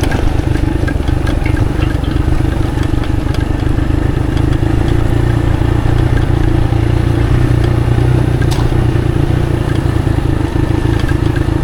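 Motorcycle engine running steadily while riding along a wet dirt road, with one brief click about eight and a half seconds in.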